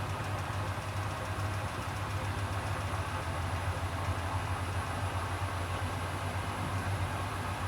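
Hoover HW411AMC washing machine in its final spin, the drum turning at a steady speed with an even motor hum.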